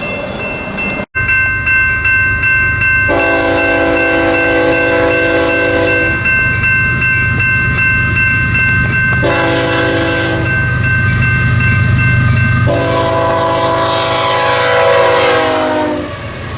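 Diesel freight locomotive sounding its multi-chime air horn three times (long, short, long) over the low rumble of its engines; the last blast drops in pitch as the locomotive passes.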